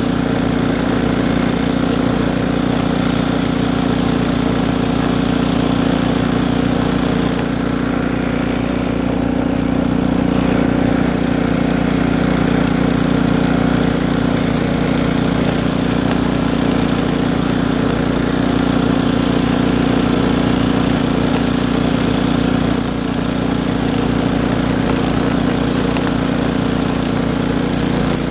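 Gas snowblower engine running steadily at working speed, its hiss dipping briefly about a third of the way through.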